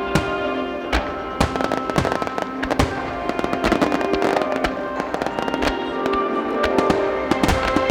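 Aerial firework shells bursting in rapid succession, many sharp reports closely packed through the whole stretch, over slow orchestral music played for the display.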